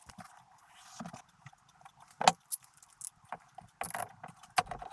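Light clicks and knocks of small wooden pieces and hand tools being handled while shelf supports are fitted into the box, with one sharp knock about two seconds in and a few more near the end.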